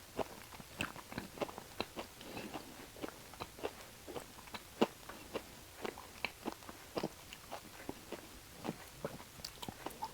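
A person chewing beef offal close to the microphone: irregular wet mouth clicks and smacks, several a second.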